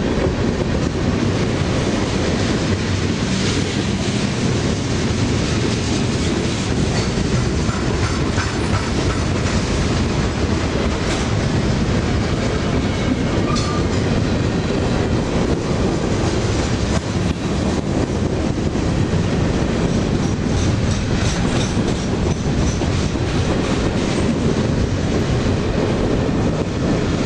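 A freight train's cars rolling past close by at speed: a steady rumble of steel wheels on the rails, with the clickety-clack of wheels over rail joints.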